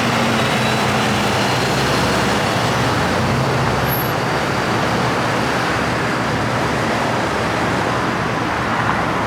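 Motor vehicle on the road: a steady engine hum under continuous road noise.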